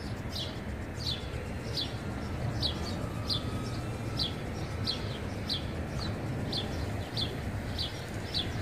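A bird chirping over and over, short high chirps that each drop in pitch, about three every two seconds.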